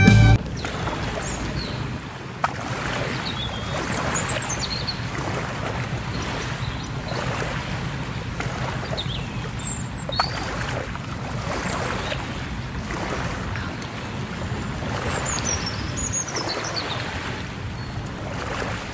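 Passenger train running at speed, heard from inside the carriage: a steady rumble and rush that swells and eases, with two sharp clicks and a few faint high squealing glides.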